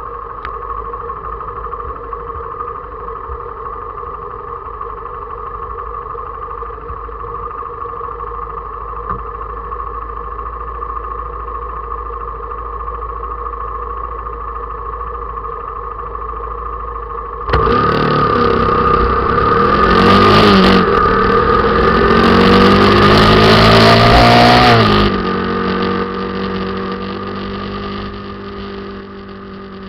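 Motorcycle engine running at a steady speed, then from about 17 seconds in it gets suddenly louder as the engine revs up with rising pitch under a rushing noise, before easing off again near the end.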